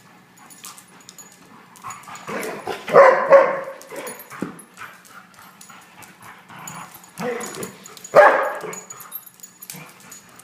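Dog barking and yipping in two bouts, the first about two to four seconds in and the second around eight seconds in, with quieter yips between.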